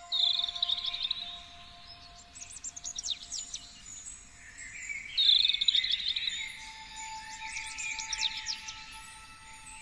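Songbirds singing: a loud warbling phrase at the start and again about five seconds in, with clusters of quick down-slurred chirps in between.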